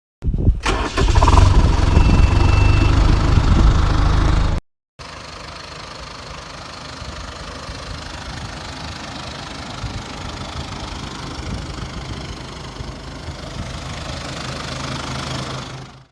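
Fendt 307 Ci tractor's turbocharged diesel engine running, loud for the first four and a half seconds with a brief high whistle in the middle, then after a sudden break, running more quietly and steadily, slowly getting louder toward the end.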